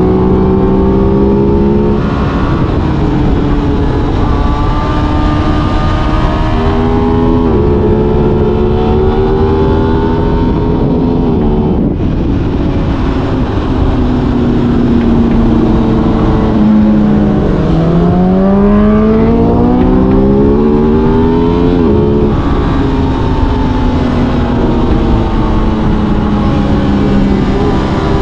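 Aprilia RS 660 parallel-twin motorcycle engine running at road speed under heavy wind rush. The engine note holds and shifts between gears, dips around the middle, then climbs steeply for a few seconds before dropping sharply at an upshift.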